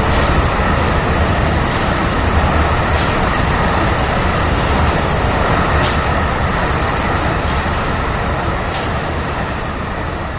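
A train running on track: a steady rumble with a sharp rail click about every one and a half seconds, fading near the end.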